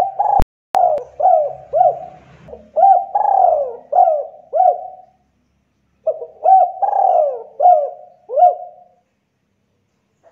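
Spotted dove (tekukur) cooing: two bouts of repeated coos, the second starting about six seconds in, with a sharp click about half a second in.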